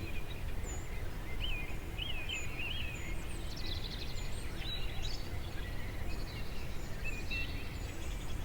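Several small birds chirping and singing short, wavering phrases, over a steady low background rumble of outdoor ambience.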